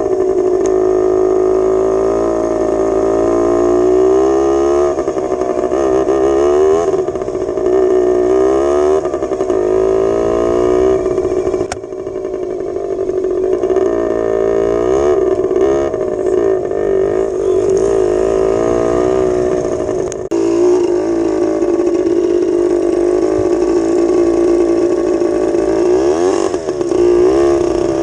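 1983 Yamaha DT80's two-stroke single-cylinder engine running, its pitch rising and falling over and over as the throttle is opened and closed. Twice the engine note dips briefly with a sharp click.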